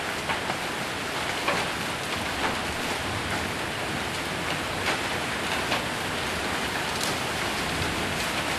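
Heavy rain with hail falling on a roof: a steady dense hiss, with sharper single hits ticking out of it every second or so.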